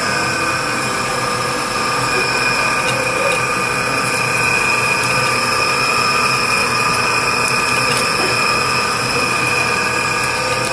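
Mushrooms and onion frying in a hot pan: a steady sizzle with a constant high whine running under it, cooking until they soften.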